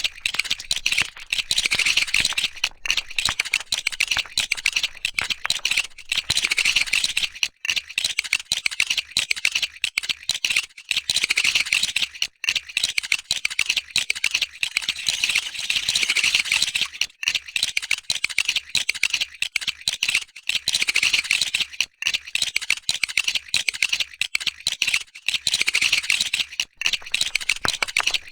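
Lego plastic bricks being pulled apart and clattering against each other, a dense, continuous stream of sharp little clicks and rattles.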